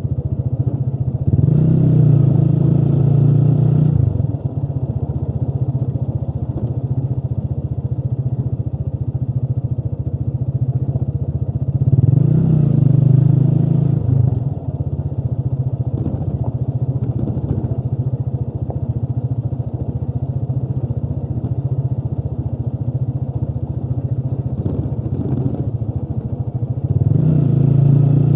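Motorcycle engine running steadily while riding, opening up to higher revs three times: briefly about two seconds in, again near the middle, and once more near the end, each louder stretch ending in a short dip.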